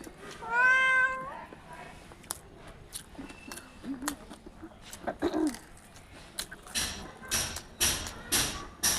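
A cat meows once, about half a second in, in one drawn-out call that falls at the end. Through the rest there are soft scattered clicks and crunches of people eating, more of them near the end.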